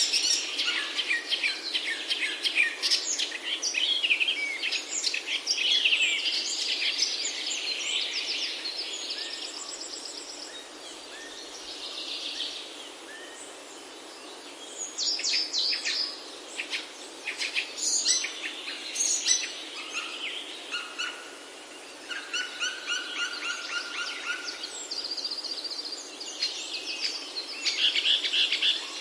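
Several birds singing and calling at once, a dense mix of chirps and trills over a steady background hiss, thinning to a quieter stretch about a third of the way in before picking up again.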